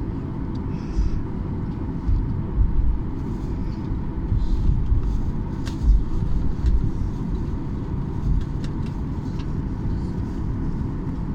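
Cabin noise of a Boeing 737-800 airliner taxiing after landing: a steady low rumble with repeated low thumps and a few sharp clicks as it rolls along the taxiway.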